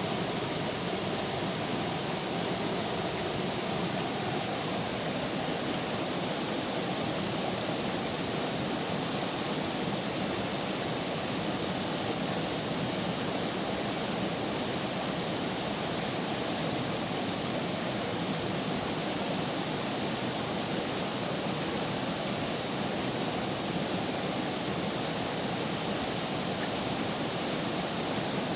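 River water running steadily over rocks, an even rushing with no breaks.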